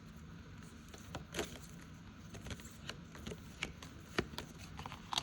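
Handling of paper savings trackers: scattered rustles and soft taps as the sheets are picked up and sorted.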